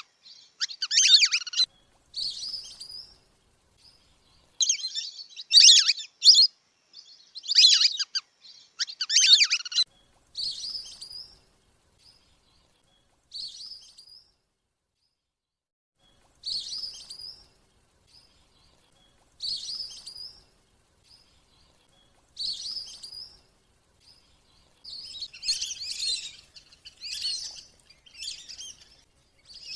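Lesser whistling ducks calling: a lure recording of short, high whistled calls repeated in groups every second or two, with a pause of a couple of seconds about halfway and a busier run of calls near the end.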